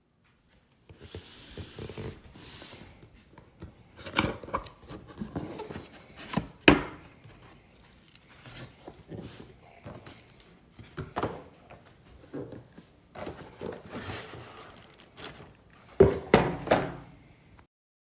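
Irregular knocks, thunks and rubbing of objects being handled close by, with one sharp knock about seven seconds in and a burst of louder knocks near the end.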